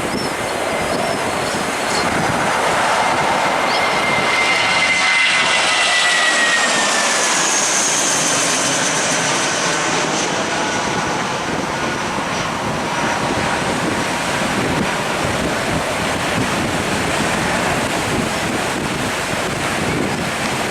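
Airbus A320-232's IAE V2500 turbofan engines at take-off power: a loud, steady jet noise with a whine that falls in pitch between about four and nine seconds in as the aircraft passes, then goes on steadily as it climbs away. A few short bird chirps are heard at the very start.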